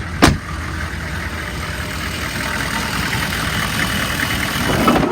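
Chevy 6.5-litre V8 diesel idling steadily, with a sharp knock about a quarter second in and a louder one right at the end.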